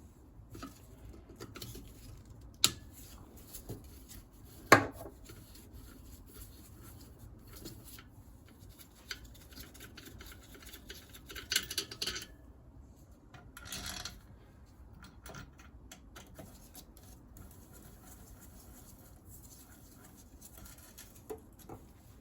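Metal clinks, knocks and scrapes of hand work on a motorcycle engine being stripped: bolts and engine parts handled on the bench. Two sharp knocks come in the first few seconds and a short burst of scraping about halfway through.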